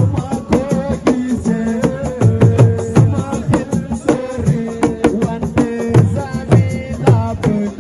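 Live assiko band music: fast, dense hand drumming with low drum tones that bend in pitch, and a held melody line over the beat.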